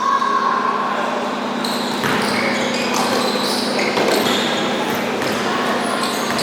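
Indoor basketball game ambience: a steady wash of crowd and court noise with a ball bouncing and short high squeaks from shoes on the court.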